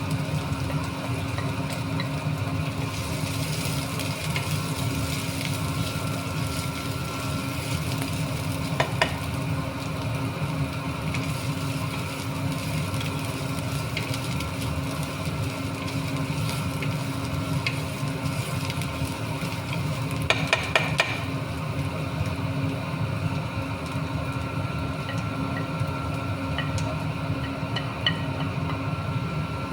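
Chicken wings sizzling as they fry in a pan, over a steady low hum, with short clicks about 9 seconds in and again around 20 seconds.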